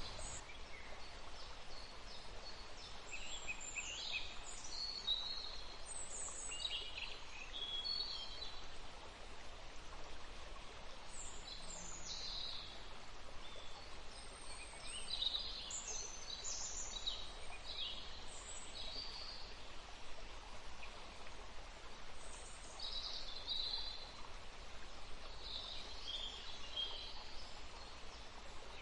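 Several songbirds chirping and trilling in short, high-pitched phrases, over a steady background hiss.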